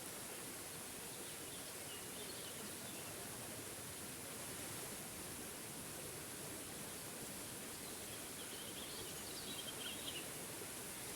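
Steady rush of a forest waterfall, with a small bird chirping faintly in the background, once about two seconds in and again near the end.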